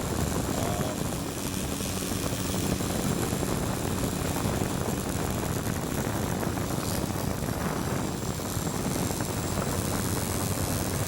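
Racing quadcopter's electric motors spinning its propellers on the ground, a steady whir; only two of the four motors are turning.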